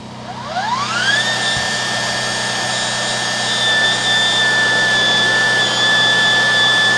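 Electric drain-cleaning machine motor spinning up in about a second to a high, steady whine, driving a cutter to clear roots from a cast iron drain line.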